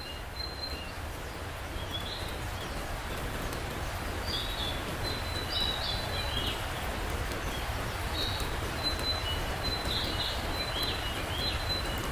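An unidentified animal's high-pitched calls: short whistled notes and quick chirps, repeated on and off, over a steady background of low rumbling noise.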